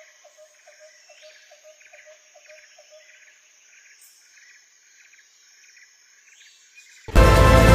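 Tropical forest ambience: a steady high insect buzz with faint chirping pulses, and a short call repeating about three times a second that stops about three seconds in. Music starts abruptly near the end.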